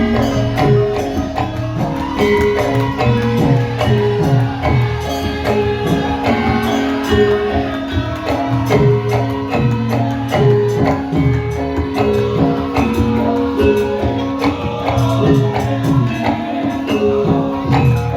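Javanese gamelan music playing continuously: a repeating pattern of pitched metallic notes over steady drum strokes and jingling percussion.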